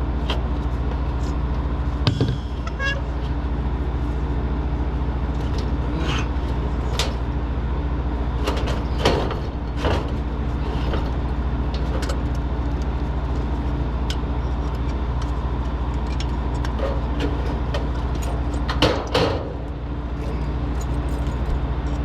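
Steady mechanical hum of a running motor, with a few sharp metallic knocks and clanks scattered through it, the loudest about two, nine and nineteen seconds in.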